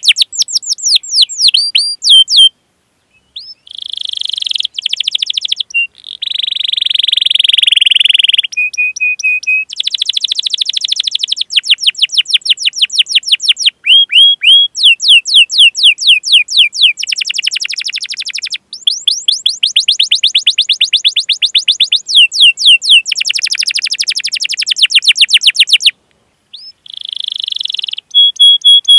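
Domestic canary singing: phrases of rapid, repeated downward-sweeping chirps alternate with rolling trills and buzzy passages, each phrase a few seconds long with brief breaks between them.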